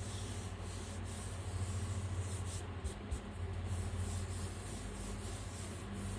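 Hands rubbing the back of a sheet of paper pressed onto a Gelli printing plate, a soft steady rubbing, to transfer the paint and pull a print. A steady low hum runs underneath.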